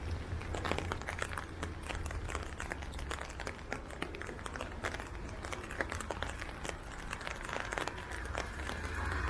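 Rain falling, with many irregular raindrop ticks close to the microphone over a steady low rumble. Near the end a passing vehicle's tyres hiss on the wet road.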